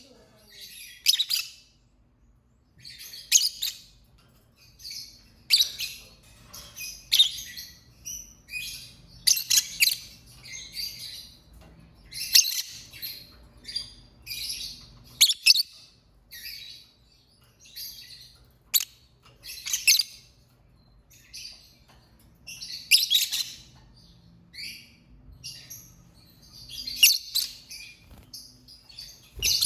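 Lovebird chirping: clusters of high, shrill chirps every second or two, with a short lull about two seconds in.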